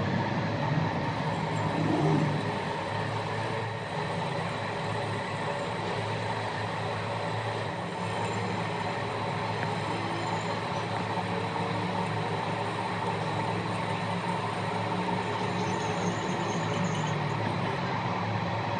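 A workshop machine running steadily: a constant hum with a faint high whine.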